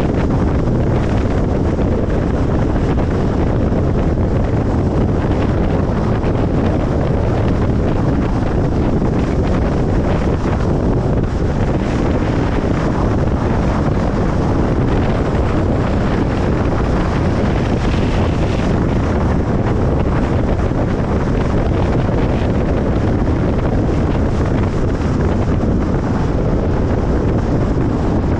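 Steady road noise of a car driving: tyre and wind noise forming an even rushing hiss, heaviest in the low range, with no breaks or changes.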